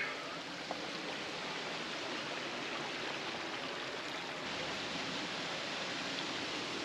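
Steady rush of a creek's flowing water, a little louder from about two-thirds of the way in.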